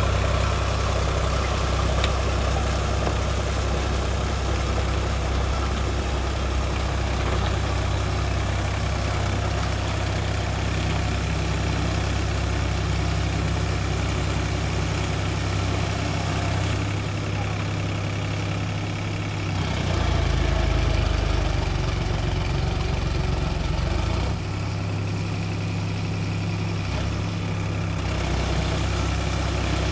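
Sonalika tractor's diesel engine running steadily under load while puddling a flooded rice paddy. It is a low, continuous drone whose note shifts a few times in the middle stretch.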